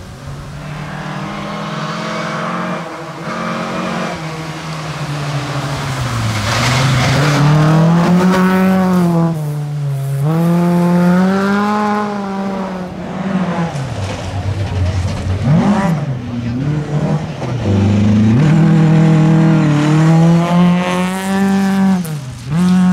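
Volvo 740 rally car's engine at full throttle, its pitch repeatedly climbing and dropping back with gear changes and lifts off the throttle.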